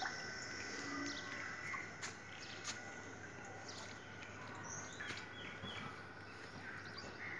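Birds chirping faintly now and then, short scattered calls over steady outdoor background noise with a faint continuous high whine.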